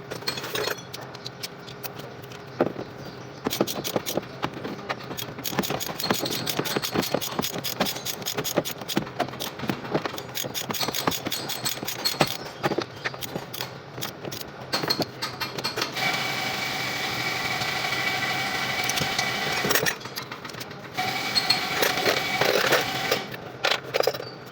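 Irregular metallic clicking and clinking of hand tools at work, with a steady hum for a few seconds about two-thirds of the way through.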